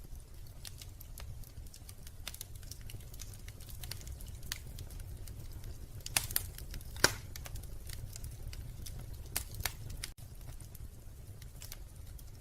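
Wood fire crackling in a fireplace: a low steady rumble under scattered small crackles, with a few louder pops about six, seven and nine and a half seconds in.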